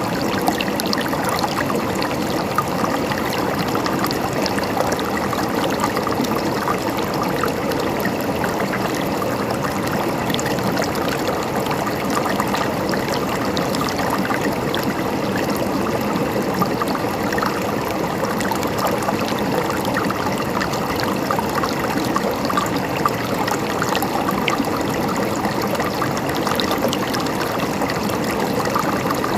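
A river flowing steadily over rocks, a continuous babbling and gurgling of water.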